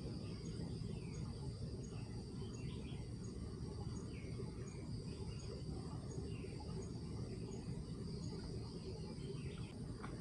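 Outdoor ambience of insects: a steady high drone with a short chirp repeating about twice a second, scattered short bird calls, and a steady low background rumble.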